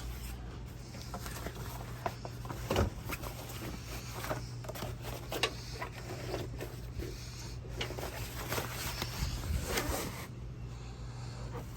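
Rustling, scraping and small irregular knocks of a canvas cover being handled, over a steady low hum.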